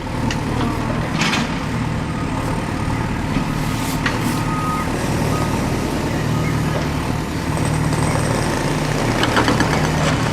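Heavy construction machinery, an excavator and dump truck, with the diesel engine running steadily, a few metal clanks, and a short run of high beeps in the middle like a reversing alarm.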